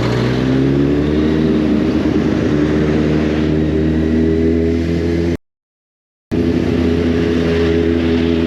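Kawasaki Z800 inline-four motorcycle engine running at a low, steady pace while filtering through slow traffic, its pitch rising slightly in the first second and a half and then holding, with wind hiss on the microphone. The sound drops out completely for about a second midway.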